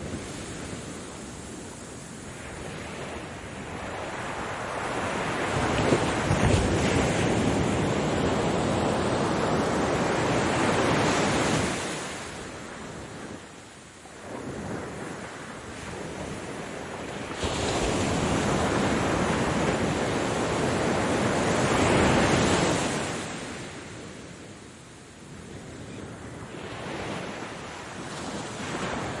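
Ocean waves in long, noisy surges: the surf swells up, holds for several seconds, then washes back and fades, twice, with a third surge building near the end.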